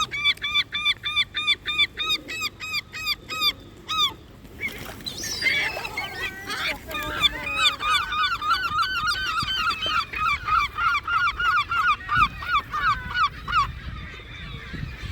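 Loud waterbird calls: one bird gives a run of evenly repeated honking calls, about three a second, for the first four seconds, then several birds call over one another in a fast, jumbled run until near the end.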